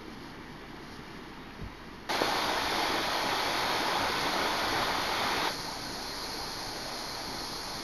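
Steady road noise from a moving car. About two seconds in, a much louder rushing hiss starts suddenly and runs for about three and a half seconds, then drops back to the steady road noise.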